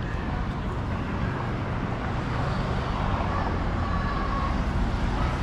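Steady road traffic noise, a continuous low rumble, with faint voices of people in the distance.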